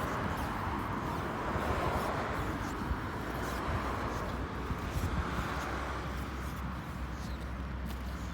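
Cagiva Raptor 125's two-stroke single-cylinder engine idling steadily through an Akrapovic exhaust, with a low steady hum and a rushing hiss over it.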